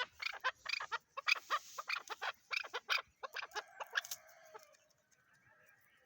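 Chukar partridge calling: a rapid run of clucking notes, about five a second, ending in a drawn-out note about four seconds in, then fading away.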